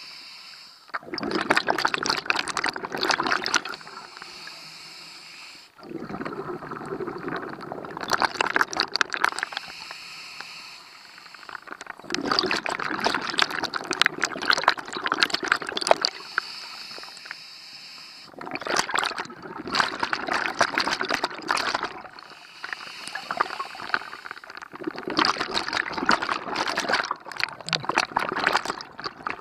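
Scuba diver breathing through a regulator underwater: exhaled bubbles gurgle and rattle in about five bursts of a few seconds each, with quieter inhalations between them.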